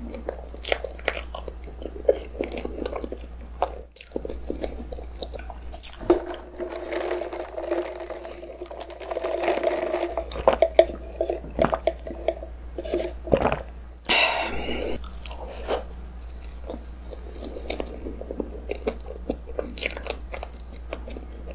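Close-miked chewing of a soft, cream-filled roll cake, with small wet mouth clicks and bites. About halfway through comes a sip of iced drink through a straw.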